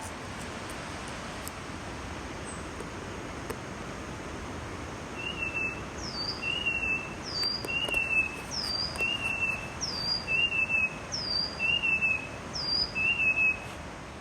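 Steady forest background noise, then from about five seconds in a bird repeats a short two-note phrase, a high hooked note followed by a lower slurred whistle, about seven times a bit over a second apart.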